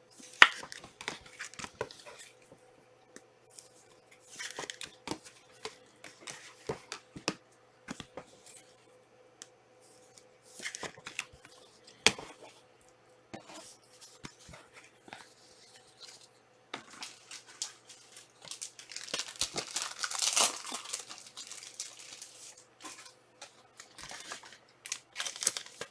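Trading card packs and their wrapping being handled and torn open: crinkling and rustling with scattered sharp clicks and taps, then a longer, denser stretch of tearing and crinkling near the end.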